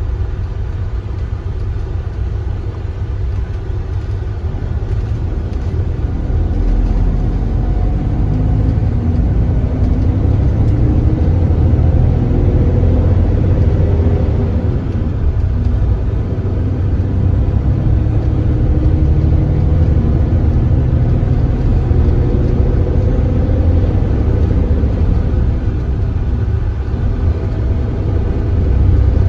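Kia Granbird Sunshine coach's diesel engine running on the road, a steady low rumble with the engine note rising and falling as it pulls. It gets louder about six seconds in.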